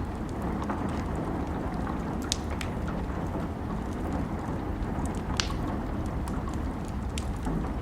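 Steady rain mixed with a crackling wood fire: a continuous low rain hiss with small scattered crackles and two sharper pops, about two and five seconds in.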